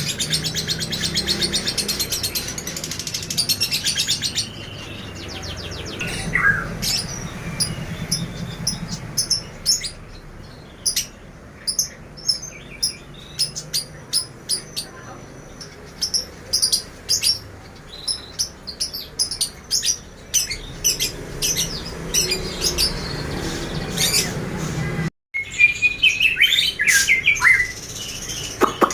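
Several songbirds chirping and calling. A fast trill opens it, followed by many short, sharp, high-pitched chirps, and more varied warbling song near the end.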